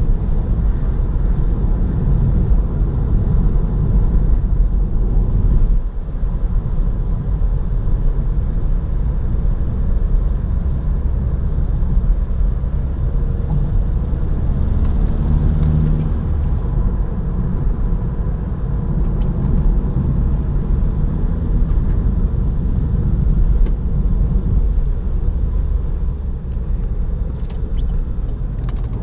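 Opel Astra 1.6 BiTurbo CDTI four-cylinder twin-turbo diesel on the move, a steady low rumble of engine, tyres and road. Loudness drops briefly about six seconds in.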